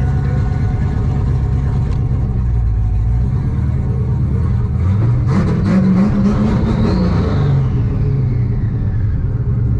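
Turbocharged Chevrolet Camaro engine idling, then revved once about halfway through: the note climbs, a high whistle rises and falls with it, and it drops back to idle.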